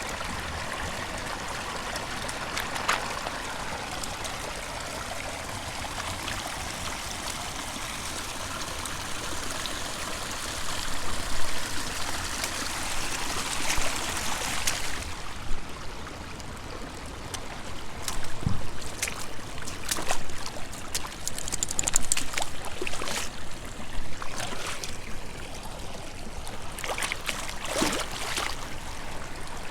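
Running water of a stream flowing steadily. About halfway through the rushing thins and a string of irregular sharp clicks and knocks comes in over it.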